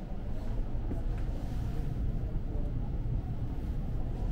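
Steady low rumble of a Seibu New Red Arrow (10000 series) limited express train running, heard from inside the passenger car near the gangway door.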